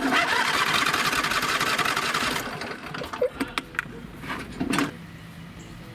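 John Deere LA130 riding mower's electric starter cranking the engine in a fast, even churn for about two and a half seconds without it catching, then stopping, followed by a few light clicks. It cranks but won't start because air is trapped in the fuel line after the tank was run dry.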